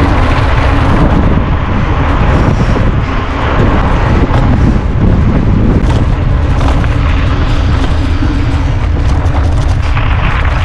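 Wind buffeting a camera microphone on a moving mountain bike: a loud, steady rumble with a few sharp knocks of the bike over rough ground.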